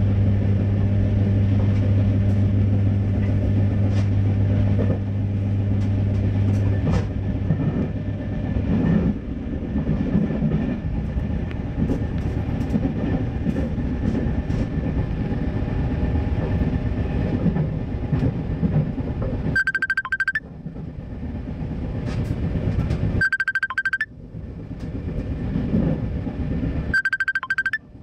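Inside a moving RER B electric commuter train: a steady running rumble with clicks from the wheels on the rails. A low steady hum fades out about seven seconds in. Near the end there are three short high-pitched tones, and the rumble drops away briefly during each one.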